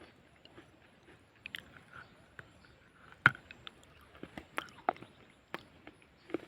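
Person biting and chewing crunchy white edible clay close to the microphone: scattered dry crunches and crackles, the sharpest bite about three seconds in.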